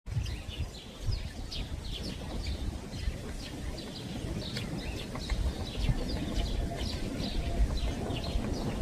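Small birds chirping and singing, many short quick notes overlapping throughout, over a steady low rumble.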